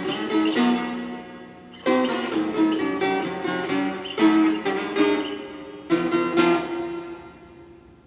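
Viola braguesa, a ten-string Portuguese folk guitar, plucked and strummed in separate ringing chords, each struck sharply and left to decay, the last one dying away near the end.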